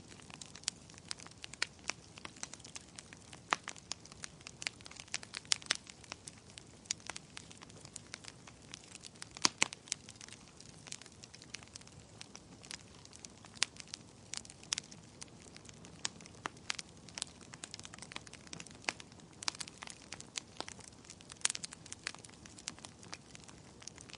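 Wood fire crackling: frequent sharp, irregular pops and snaps over a soft steady hiss of flames.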